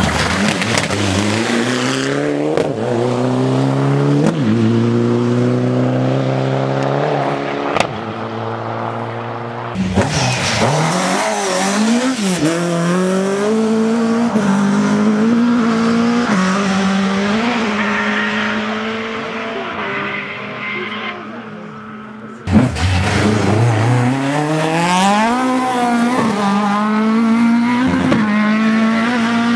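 Rally car engines at full throttle on a stage, revving hard and climbing in pitch, with drops at each upshift, in three separate runs with abrupt cuts between them.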